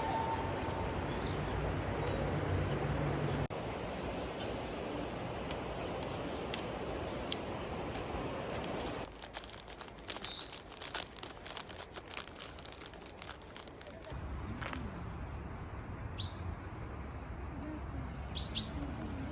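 Small birds chirping with short, high, repeated calls, over a steady rushing background for the first half. A busy run of sharp clicks and crackles comes in the middle.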